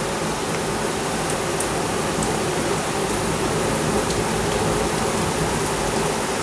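Heavy rain pouring down steadily in a thunderstorm, an even hiss with a few faint drip ticks.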